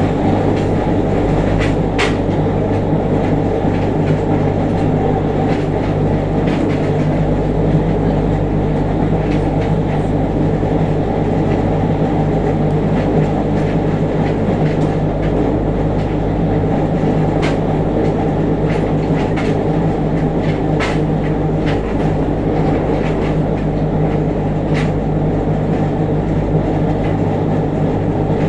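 Running sound of a JR Kyushu 303 series EMU heard from above its motor bogie: a steady low hum and growl from around the traction motor at an even speed, with a few sharp clicks. This is a car singled out as noisy, its motor growling with heavy vibration as it turns.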